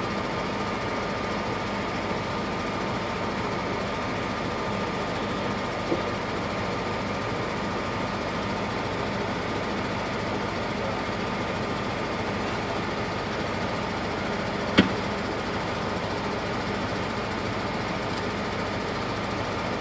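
Vehicle engine idling steadily, heard from inside the cab. A single sharp knock about 15 seconds in, with a fainter one around 6 seconds.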